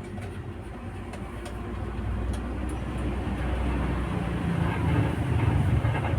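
Konzert 502B amplifier putting crackling noise through its speaker: a low rumbling hiss with scattered faint crackles that grows louder from about two seconds in. This is the crackling fault under diagnosis.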